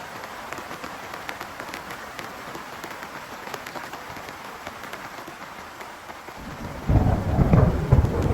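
Heavy rain falling steadily. Near the end a loud, low rumble of thunder breaks in suddenly and goes on rumbling.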